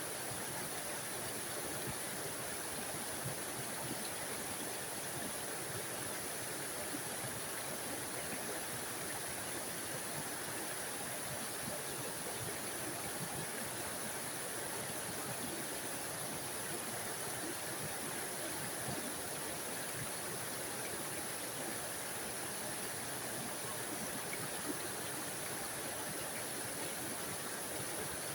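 Small forest waterfall splashing and rushing steadily, an even hiss of falling water.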